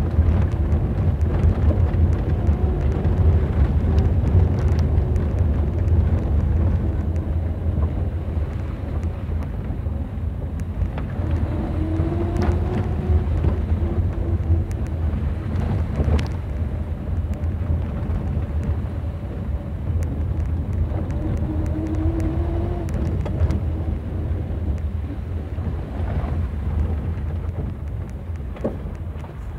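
Interior sound of a 1977 Triumph Dolomite 1850 HL on the move: the 1854 cc slant-four engine and road noise as a steady low drone, with a whining tone from the transmission that comes and goes three times. The engine is down on power with partly clogged carburettor jets. The drone dies down near the end as the car slows.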